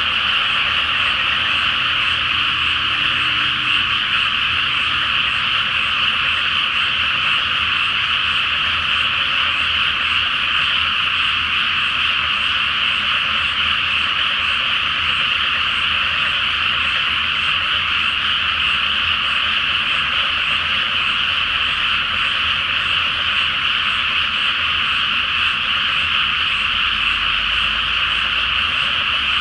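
Large chorus of frogs calling together from a flooded rice paddy: a dense, steady wall of croaking without pauses, sitting in a fairly high register.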